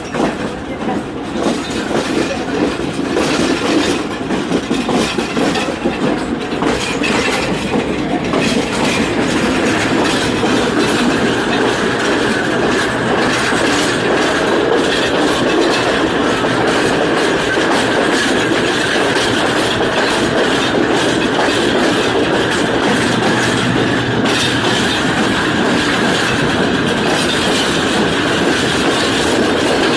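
Passenger train running along the rails, its wheels clacking over rail joints. After about ten seconds the sound settles into a steadier rumble with a faint high whine from the wheels on the track.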